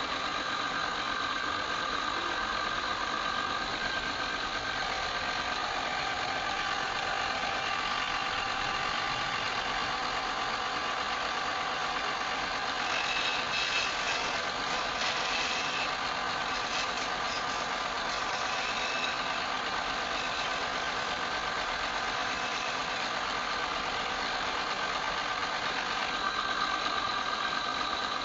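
Wood lathe running steadily with a constant motor whine. About halfway through there is a stretch of harsher, brighter scraping as a turning tool cuts the spinning wood.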